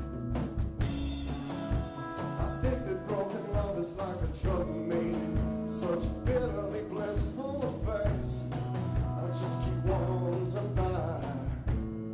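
A band playing rock music live: a drum kit keeps a steady beat under held chords, with a wavering melodic line over the top through the middle of the passage.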